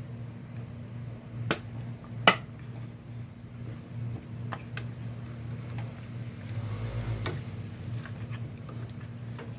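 Kitchenware knocking against a cooking pot: two sharp knocks about a second and a half and two seconds in, the second louder, then light scattered taps, over a steady low hum.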